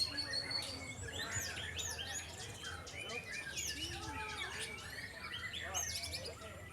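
White-rumped shamas (murai batu) singing, several songs overlapping at once in a dense, unbroken chorus of arching whistles and quick chirps.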